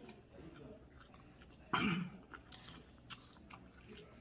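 Close-up eating sounds: chewing a mouthful of food with small crisp clicks. One louder, short sound comes a little under two seconds in.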